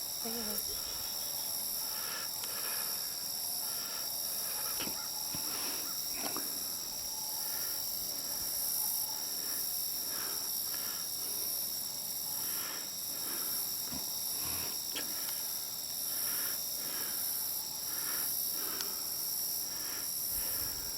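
A steady chorus of crickets and other insects, a continuous high trill with faint repeated chirps beneath it.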